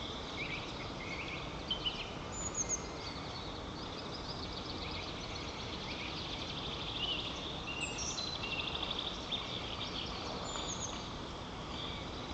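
Small songbirds singing around the treetop, with repeated short high chirps and a run of rapid trills about eight seconds in, over a steady background hiss.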